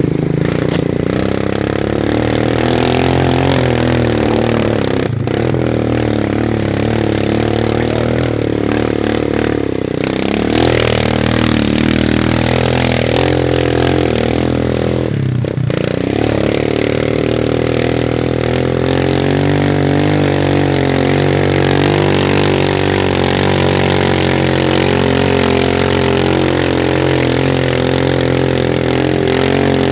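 Coffee-hauling motorcycle taxi's engine running under way, its note rising and falling with the throttle, with brief dips about five and fifteen seconds in.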